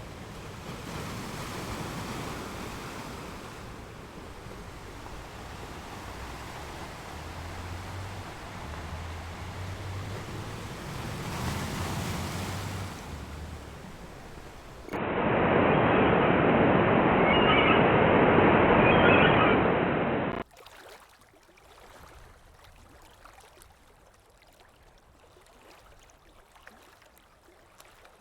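Ocean surf washing in, swelling and fading in slow waves for about fifteen seconds. Then comes a much louder, duller rush of surf with a few faint high tones in it, which cuts off suddenly after about five seconds into a faint, quiet background.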